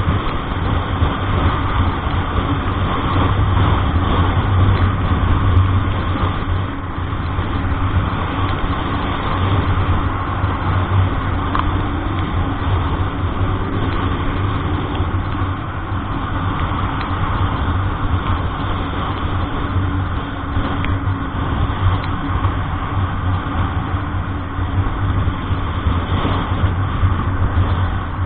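Steady motor-vehicle engine and road noise: a continuous low hum under an even rushing haze, without a break or a change in pace.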